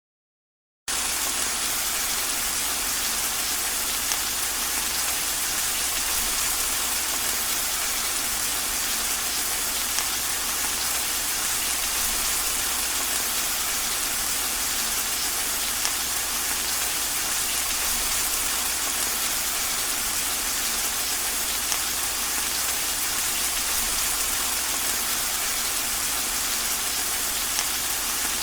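Steady rain falling, a dense, even hiss of drops that starts abruptly about a second in, after a moment of silence.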